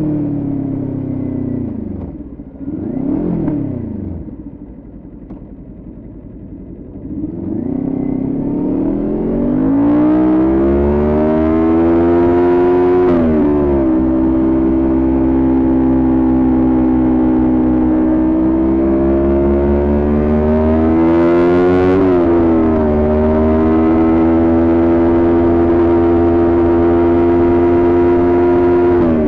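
Kawasaki Ninja 400 parallel-twin engine heard from the rider's bike: it slows off throttle with a short rev blip about three seconds in and drops low, then accelerates and runs steadily at cruising revs, with two quick upshifts along the way.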